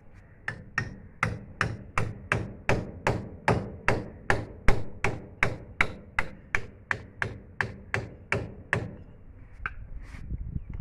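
Steady hammer blows, about three a second, a long even run that stops near the end.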